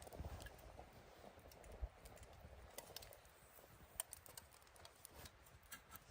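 Faint, scattered clicks and light taps at uneven intervals, with one slightly louder tap about two seconds in.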